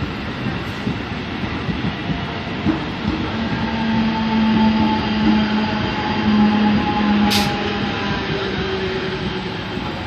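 Mumbai local electric train running past, a steady rumble with a low hum that swells in the middle, and one sharp click about seven seconds in.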